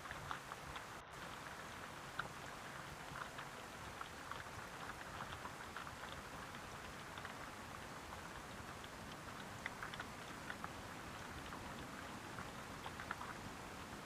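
Steady rain with many individual drops ticking and pattering on a surface.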